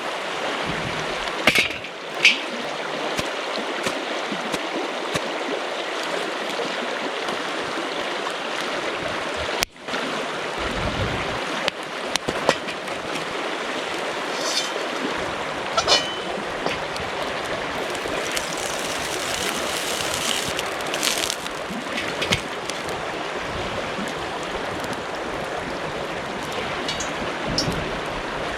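River water flowing steadily, with a few short clicks and knocks here and there.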